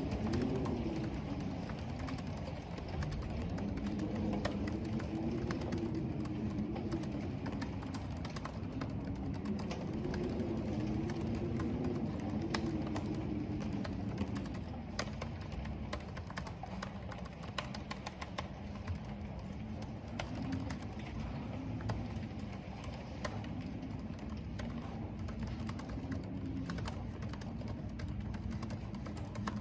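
Computer keyboard typing, irregular key clicks, over a steady rumble of wind with a low howl that wavers up and down in pitch.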